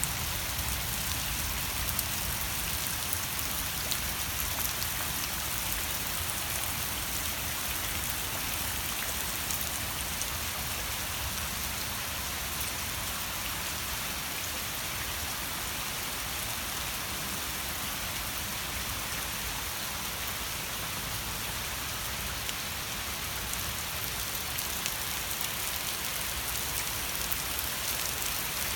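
Steady rain falling, a constant even hiss with many small drop hits scattered through it.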